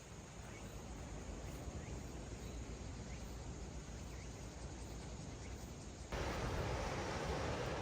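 Steady outdoor ambient noise, a rushing haze with no clear single source. About six seconds in it cuts abruptly to a louder, fuller rushing noise.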